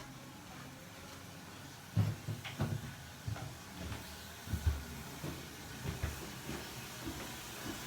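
Footsteps going down a staircase: a run of about a dozen irregular dull thumps, starting about two seconds in and dying away near the end.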